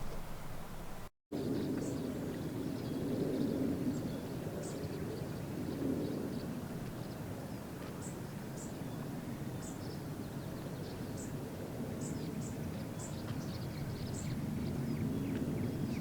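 Outdoor ambience: scattered short, high bird chirps over a steady, swelling low rumble of wind or distant noise, after a brief dropout about a second in.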